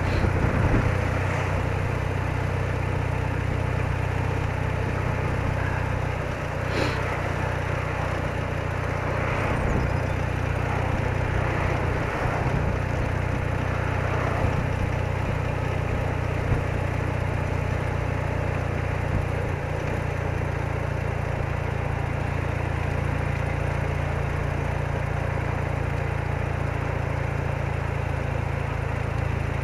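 A BMW R80RT's air-cooled flat-twin engine running steadily, a low drone under a steady rush of wind and road noise.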